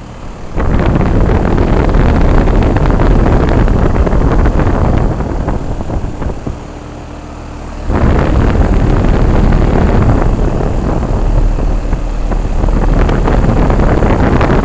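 Carrier central air-conditioner condensing unit running, its fan's air blast buffeting the microphone as a loud, rough rush. The rush starts suddenly, eases for a couple of seconds partway through, then returns.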